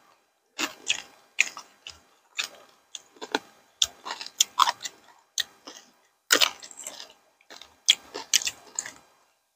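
Close-miked chewing of papaya salad with raw vegetables and rice noodles: irregular wet mouth smacks and crunches, roughly two a second.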